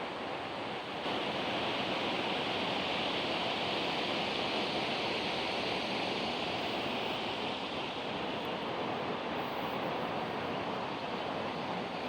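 Steady rushing water, an even hiss without rhythm or swells, which gets louder about a second in.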